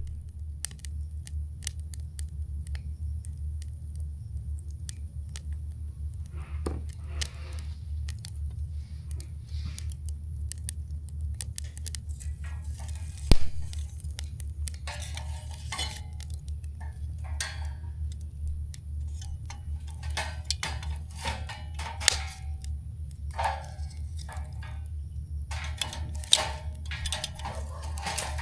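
Wood campfire crackling, with scattered sharp pops and clicks over a steady low rumble; one louder pop about 13 seconds in, and denser crackling in the second half.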